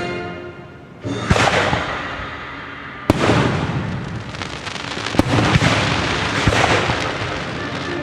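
Aerial fireworks bursting: sharp bangs about one, three, five and six and a half seconds in, with dense crackling between them, over orchestral music.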